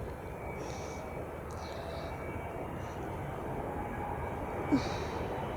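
Jet engines of an approaching Emirates Boeing 777-300ER, its GE90 turbofans a steady low rumble growing slowly louder as the airliner comes in to land. A brief sharp sound stands out about three-quarters of the way through.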